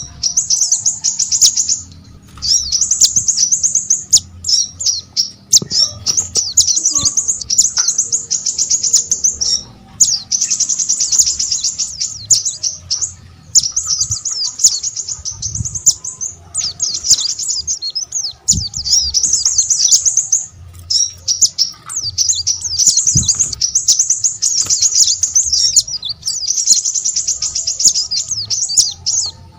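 Small songbird singing long, fast, high-pitched twittering phrases of a few seconds each, repeated with short pauses between them.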